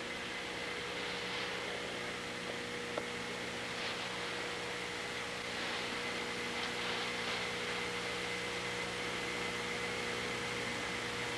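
Steady background hum and hiss of running equipment, with a faint click about three seconds in.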